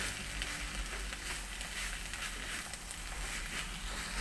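Spinach and potato frying in an aluminium kadai, a steady sizzle as a wooden spatula stirs and turns the greens.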